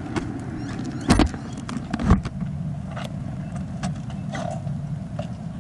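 Honda VFR750's V4 engine running steadily with a low rumble, heard from a helmet camera, with two thumps about one and two seconds in.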